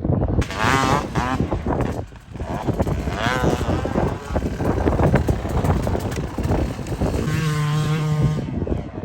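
Dirt bike engine revving hard, its pitch climbing and dropping several times, then holding a steady note for about a second near the end, with wind noise on the microphone.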